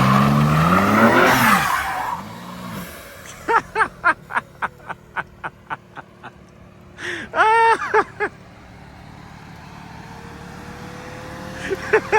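BMW G80 M3's twin-turbo straight-six revving hard as its tyres spin, loudest in the first two seconds, then dropping away. A run of about four sharp ticks a second follows, then a brief loud pitched sound just before eight seconds.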